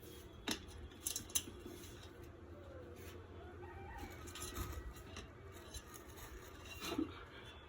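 Pet parrot making soft, low calls, with a few sharp clicks near the start.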